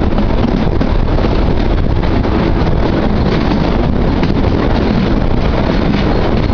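Kalka–Shimla narrow-gauge toy train running: a loud, steady rumble with wind buffeting the microphone.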